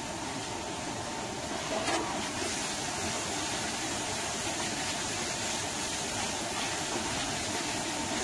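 Sliced onions, mushrooms and tomato paste frying on high heat in a large stainless-steel pan: a steady sizzle, with a light knock of the spoon about two seconds in.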